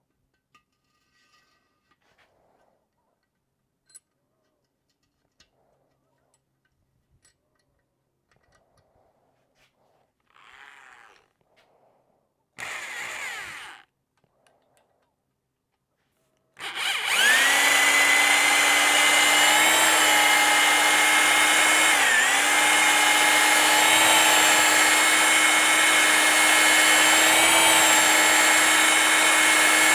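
Two short hisses, then about halfway through an electric drill starts and runs steadily, briefly dipping in speed once. It is spinning a 100-grit stone cylinder hone in a Yamaha 250 outboard's cylinder bore, opening the bore up a few thousandths toward the correct piston-to-wall clearance.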